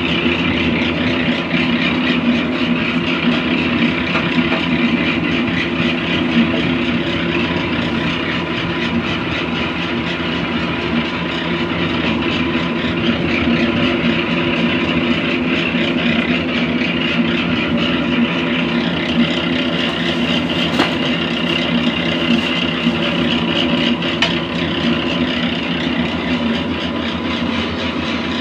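Motor-driven mustard oil press running steadily with a constant machine hum.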